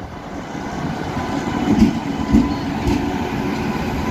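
Indian Railways WAP-7 electric locomotive and its passenger coaches rolling past at low speed, growing louder, with a few wheel clacks over the rail joints.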